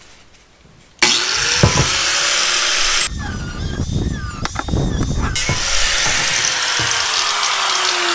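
A power tool starts about a second in and cuts into a chromed motorcycle exhaust muffler, a loud steady metal-cutting noise with a wavering squeal in the middle and a tone that slowly drops in pitch near the end.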